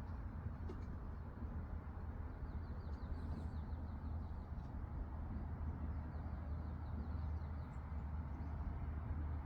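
A small bird chirping faintly in a quick, repeated run over a steady low rumble.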